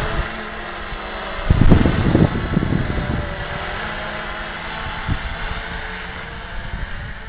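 Quadcopter's four electric motors and propellers whirring steadily in flight, with wind buffeting the microphone in gusts, loudest about a second and a half in.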